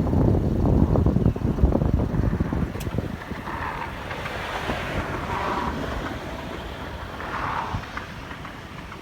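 Wind buffeting the microphone in heavy low gusts that ease after about three seconds, leaving a softer hiss of wind and sea surf.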